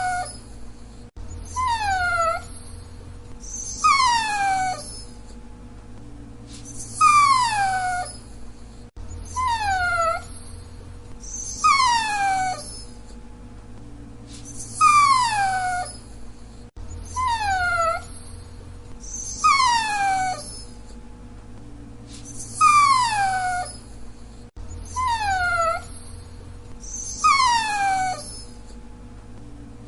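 Dachshund whining: about eleven short, high whines, each sliding down in pitch, coming one every two to three seconds over a faint steady hum.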